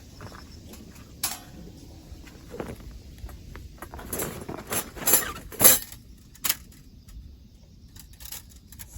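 Metal camping gear being handled: scattered clinks and knocks over a low steady background, the loudest about six seconds in.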